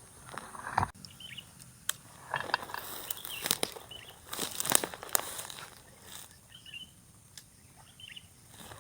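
Irregular rustling and short knocks of handling outdoors, with a few brief high bird chirps scattered among them.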